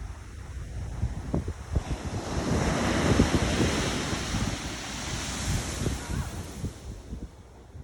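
Pacific Ocean surf: a wave builds and breaks about two seconds in, then washes up with a hiss that fades near the end, with wind buffeting the microphone.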